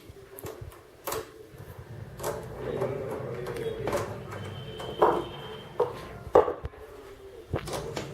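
Scattered clicks and knocks of bench equipment being handled as oscilloscope controls are set, the two sharpest knocks about five and six and a half seconds in.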